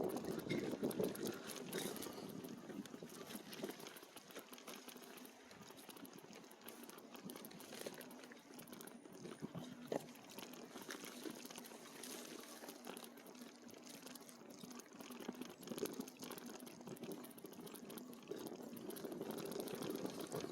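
E-bike tyres rolling slowly over rough, rutty off-trail ground, a faint steady crackle and crunch with many small clicks and rattles, a little louder near the start and end.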